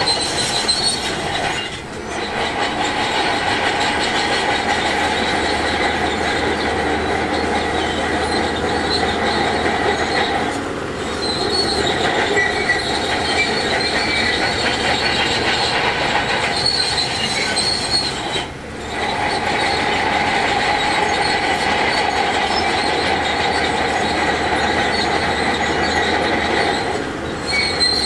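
Shantui DH17C2 crawler bulldozer running under load while pushing rock, its steel tracks squealing and clanking steadily. The noise dips briefly about every eight to nine seconds.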